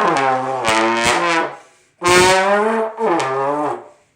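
Trombone blown in two long, loud notes, each sliding down in pitch, with a short break between them.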